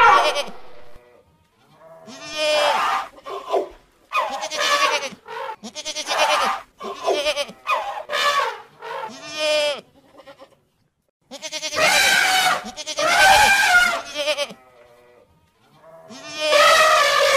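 Goats bleating again and again, a string of wavering calls with short pauses between them.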